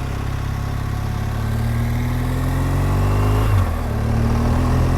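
BMW R1200GS Adventure's boxer-twin engine pulling up through the revs, its pitch rising steadily, dropping briefly at a gear change about three and a half seconds in, then climbing again.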